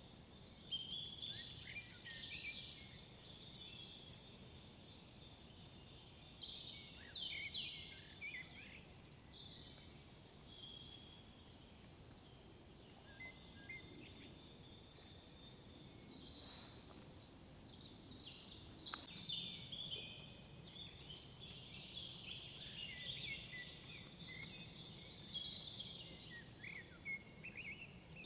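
Several woodland birds singing at once, overlapping chirps, whistles and warbles, with a high, rapid trill that comes three times. A steady low background hum runs underneath.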